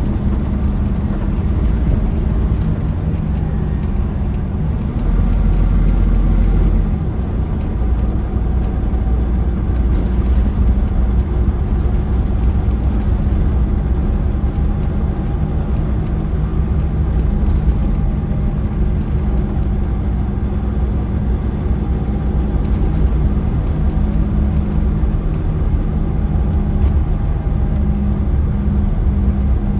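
Scania L94UB bus's DC9 nine-litre diesel engine running under way, heard from on board with steady road and drivetrain noise. The low rumble grows heavier for a couple of seconds about five seconds in.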